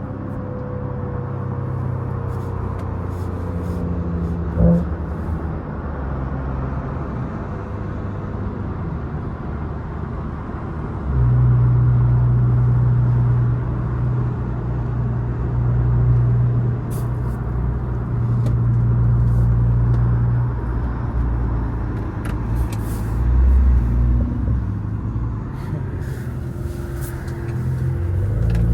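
Catless, straight-piped turbocharged inline-six (B58) of a BMW 540i running at a steady engine speed with a low drone, which gets noticeably louder about eleven seconds in and holds there. A single short knock comes about five seconds in.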